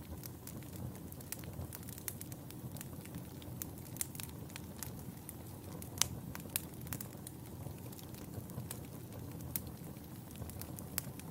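Wood fire burning in a fireplace: a steady low rumble of flames with frequent irregular sharp crackles and pops, the loudest pop about halfway through.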